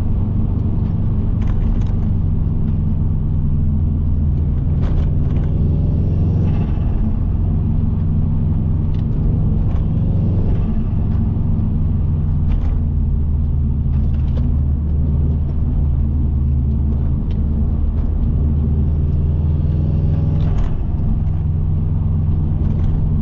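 Subaru Impreza WRX's turbocharged EJ20 flat-four engine and road noise heard inside the cabin while driving, a steady low drone with a few short clicks.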